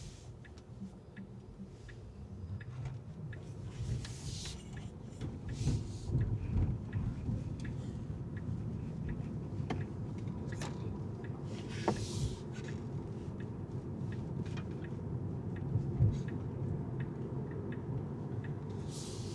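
Car driving at city speed: a steady low road rumble with scattered small clicks and rattles. Brief hissing whooshes come about four and six seconds in, around twelve seconds and near the end.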